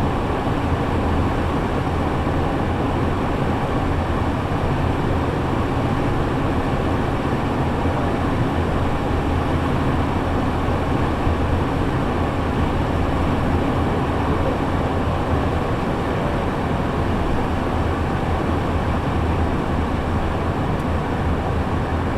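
Steady engine drone and road noise of a shuttle bus heard from inside, a low hum under an even rushing noise that stays level throughout.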